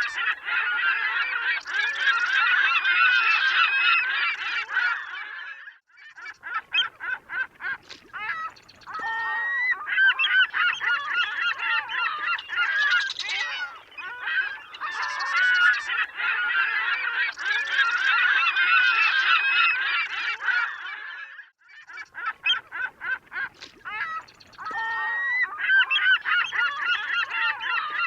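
A flock of seagulls calling over one another in a dense chorus of overlapping cries. Twice the chorus thins for a few seconds to a quick run of separate short calls before filling in again.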